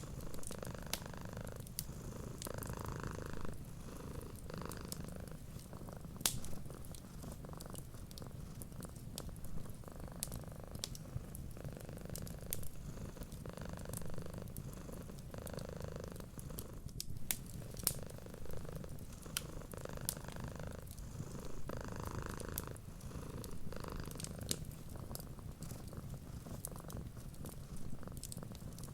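Domestic cat purring steadily, the purr swelling and easing about every second and a half, with scattered sharp crackles and pops from a wood fire.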